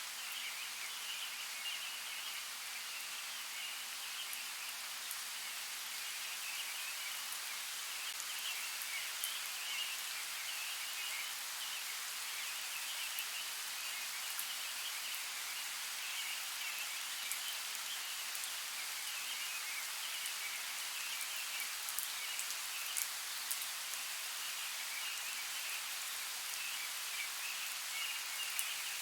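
Steady outdoor nature ambience: an even hiss like light rain, with scattered sharp ticks like drops and a steady, fluttering high chatter.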